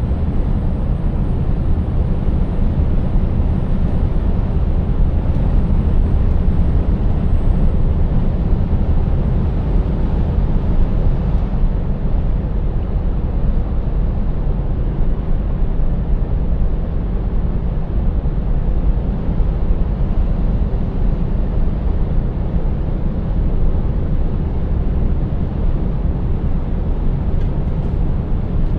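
Scania 590S's V8 diesel engine running steadily as the truck drives along, mixed with road and tyre noise.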